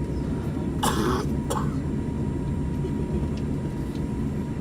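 Steady low rumble of an airliner cabin with the jet taxiing after landing. About a second in, someone gives a short cough or throat-clear, followed by a brief click.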